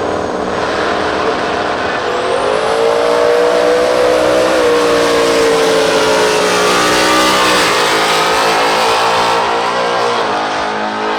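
Drag-race car engine at full throttle down the strip: the engine note climbs sharply about two seconds in, runs high and loud, then drops at gear shifts about two-thirds of the way through and again near the end.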